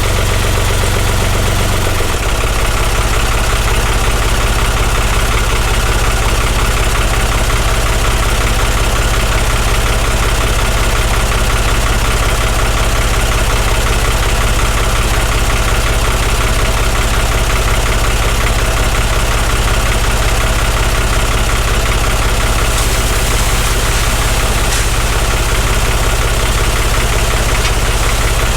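Oliver farm tractor's engine running steadily and close by; its note shifts about two seconds in, then holds even.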